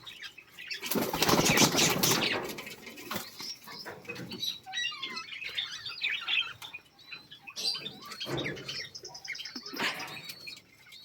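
Caged birds flapping their wings in a loud flurry about a second in and again in shorter bursts near the end, with small birds chirping high and thin throughout.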